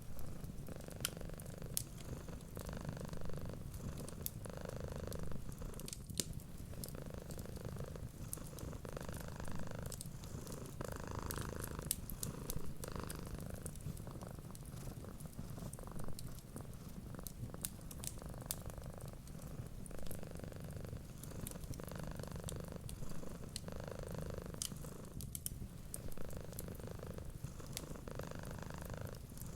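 Cat purring steadily, swelling and fading with each breath about once a second, with scattered sharp pops of a crackling wood fire.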